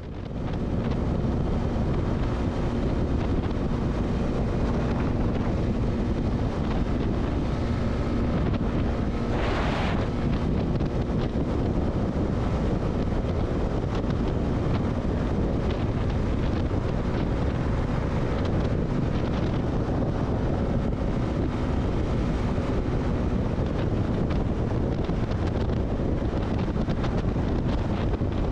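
Heavy wind rushing over the microphone at highway speed on a Honda CB300R, with the bike's single-cylinder engine holding a steady tone underneath.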